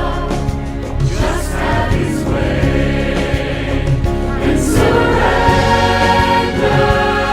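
Christian worship song: several voices singing together over instrumental backing with a steady bass.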